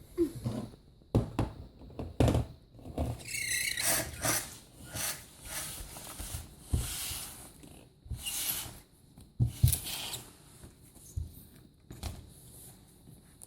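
Hollow plastic play balls knocking and rattling in scattered bursts as a child's hands dig through them to free a stuck toy truck, with a brief high squeal about three seconds in.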